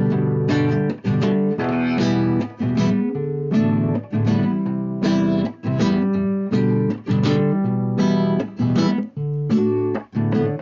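Acoustic guitar (violão) strumming chords in a steady forró rhythm, with short breaks between phrases.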